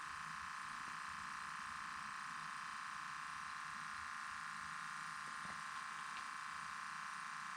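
A faint, steady, high-pitched hum with no change.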